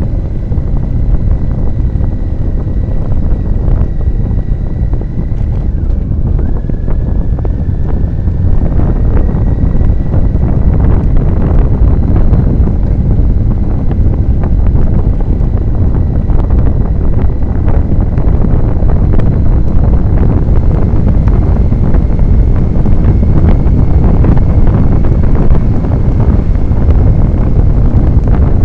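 Wind rushing over the microphone of a moving motorcycle, with the bike running underneath, growing a little louder about eight seconds in. A thin high whine sits steadily above it, breaking off about six seconds in and coming back slightly lower.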